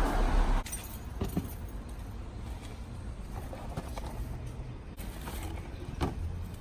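Rustling and handling of a car's engine air filter and plastic airbox during a filter swap. A loud rustle at the start dies away within about half a second, leaving a low background rumble with a few light clicks.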